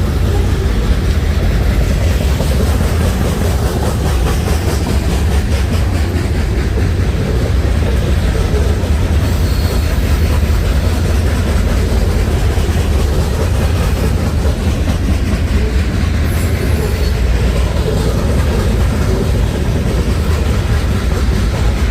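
Freight train cars rolling past close by: a steady, heavy low rumble with a fast, continuous clatter of wheels on the rails.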